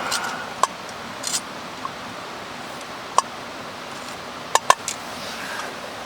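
Steady rush of a mountain stream, with a few short, sharp clicks on top: one just after the start, one around three seconds in, and a quick pair past four and a half seconds.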